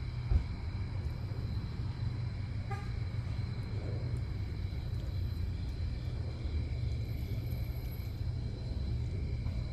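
Vehicle engine idling: a steady low rumble with a steady high-pitched tone over it, and a single thump about half a second in.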